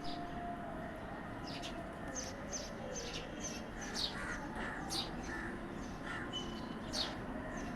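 Birds chirping: a stream of short, high chirps, several a second, over a steady low background hum.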